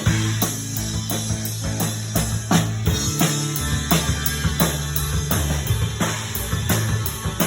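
Blues-rock band playing an instrumental passage: a drum kit keeps a steady beat over a sustained bass line that shifts pitch about three seconds in.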